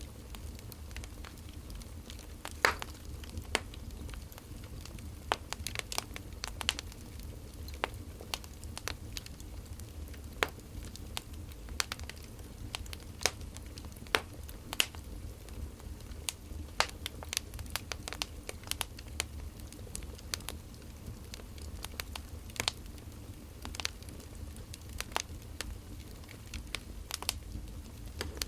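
Wood fire crackling, with irregular sharp pops and snaps of burning firewood, several a second at the busiest, over a low steady rumble.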